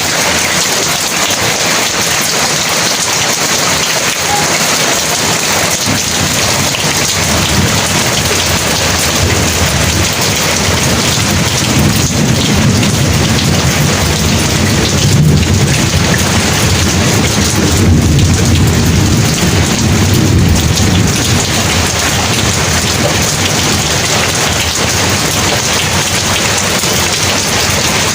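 Heavy rain pouring steadily. About a third of the way in, a long, low rumble of thunder swells up, peaks around the middle and dies away a few seconds later.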